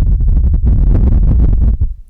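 ASMR ear cleaning: a tool rubbing and scraping right against the microphone, giving a deep rumble with dense scratchy crackling that eases off near the end.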